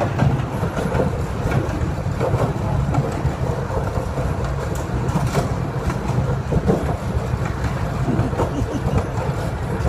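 Miniature park train running along its track, heard from on board: a steady low rumble of wheels on rail with scattered irregular clicks.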